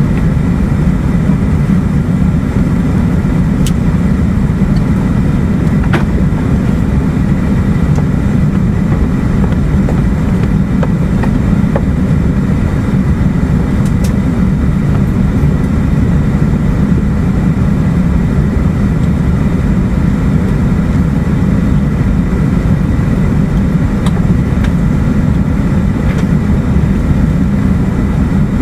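E2 series Shinkansen car running at speed, heard from inside the passenger cabin: a steady, low rumble of wheels and running gear, with a few faint clicks.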